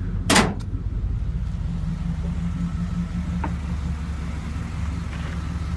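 Steady low rumble of a vehicle engine running at idle, with one sharp knock about a third of a second in.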